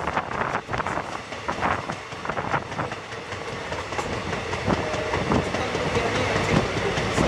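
Passenger express train coaches running on the rails, heard from beside a moving coach: steady running noise with irregular wheel clacks over the track.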